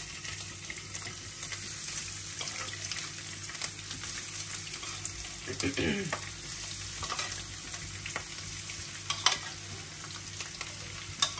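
Sliced chicken sausage sizzling as the pieces are spooned, a few at a time, into hot coconut oil in a nonstick pan for shallow frying. Scattered light clicks of a metal spoon against the bowl and pan.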